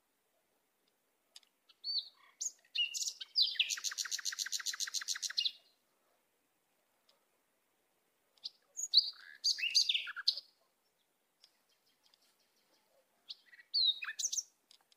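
Songbird calls: short high chirps and sliding whistled notes, with a rapid trill lasting about two seconds roughly three to five seconds in, then two more bunches of chirps around ten seconds and near the end, with silence between.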